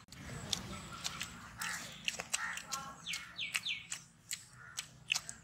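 Crisp bites and chewing into batter-fried chicken bajji, with a bird calling three times in quick falling notes about three seconds in.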